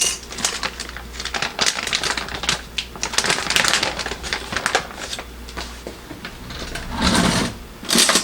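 A bag of ground coffee being opened and handled, with quick, irregular dry crackling and rustling and a louder burst of it near the end.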